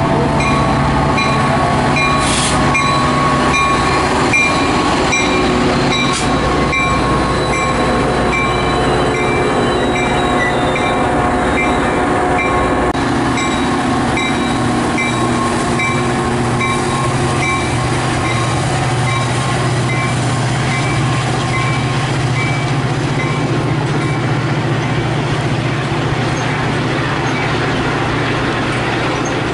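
Train passing, a loud steady rumble of wheels on the rails with faint regular clicking.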